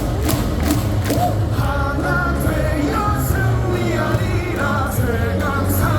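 Baseball stadium crowd singing a cheer song in unison over loud amplified music, with a steady beat of sharp strikes.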